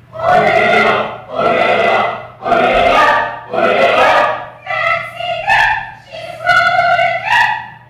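A group of voices singing or chanting in unison in short phrases about a second each, seven in a row, the later ones held on level notes that step up in pitch.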